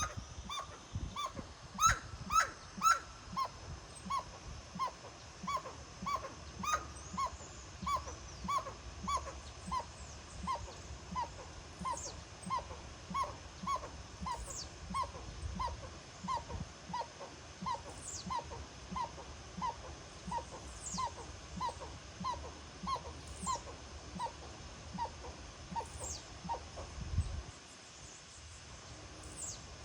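An animal, likely a bird, giving a short honking call over and over, about two a second, with a few louder calls a couple of seconds in; the calling stops near the end. A thin, high falling whistle comes every few seconds.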